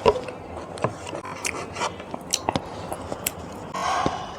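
Close-miked chewing and mouth sounds of someone eating spicy beef innards, with many short wet clicks scattered through, and a brief louder noisy rush shortly before the end.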